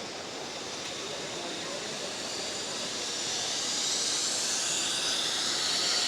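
Zip line trolley running along its steel cable over the river, a hissing whir that grows steadily louder as the rider comes closer.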